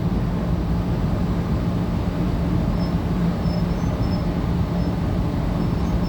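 Tangara electric multiple unit heard from inside the carriage while running at speed: a steady rumble of wheels on track with a constant low hum. A few faint, brief high-pitched squeaks come and go.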